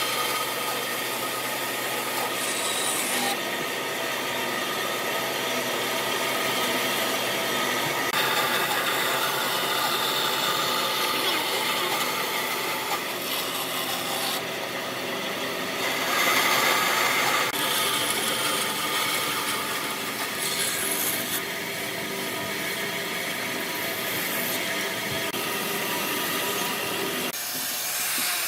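Hand or power tools working wood: continuous rubbing and sawing noise that changes character abruptly every few seconds.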